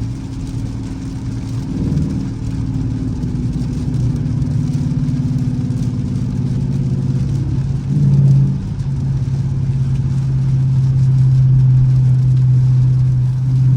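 Dodge Charger R/T's V8 engine running under way, a steady low drone whose pitch steps up about four seconds in, surges briefly about eight seconds in, then holds steady.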